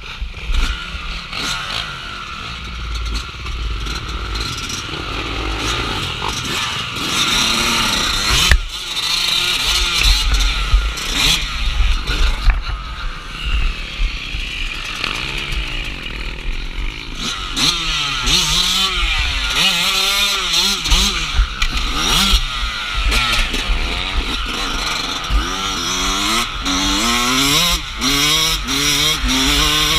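Dirt bike engine revving up and down repeatedly as the bike is ridden over a trail, with a steady low rumble and scattered knocks and clatter from the rough ground.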